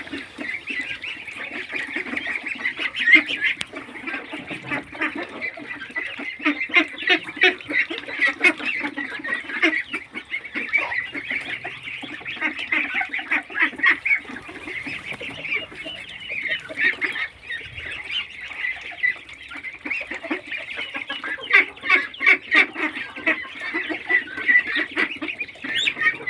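A flock of swimming waterfowl calling continuously, many short overlapping honks and quacks running together in a dense chatter.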